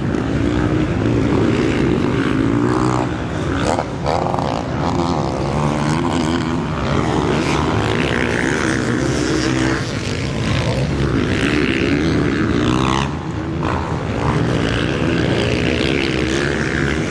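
Motocross bike engines revving hard on the track, their pitch repeatedly rising and falling as the riders accelerate and back off.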